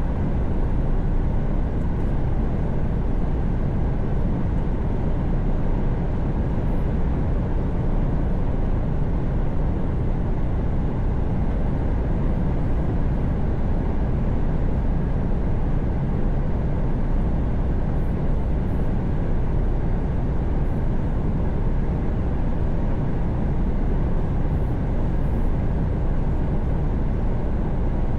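Mercedes-Benz Actros truck cruising at motorway speed: a steady drone of engine and tyre-on-road noise.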